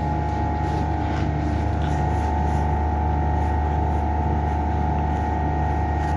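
A steady machine drone: a strong low hum with several fixed tones above it, unchanging throughout.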